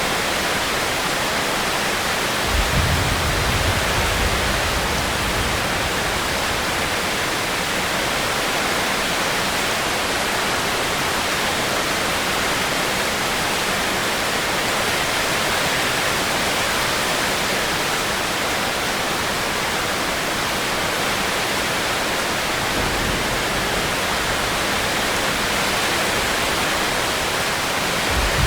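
Steady rain, an even hiss, with a low rumble about three seconds in and again near the end.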